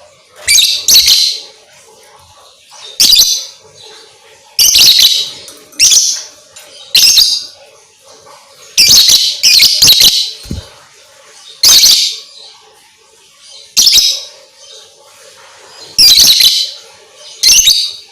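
Lovebird giving shrill chattering bursts, about ten in a row, each under a second and irregularly spaced. It is a lure call meant to set other lovebirds singing.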